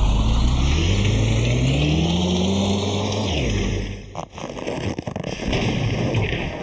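A motor revving up, its pitch rising steadily under a loud rushing noise for about three and a half seconds, then falling away about four seconds in before a rougher noisy stretch carries on.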